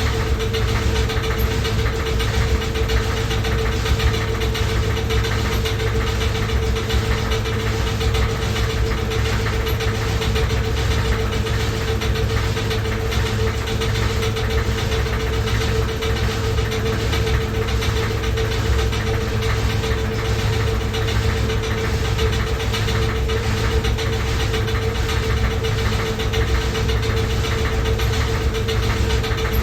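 Washing machine running loudly: a steady machine hum with one held mid-pitched tone and a faint regular pulse.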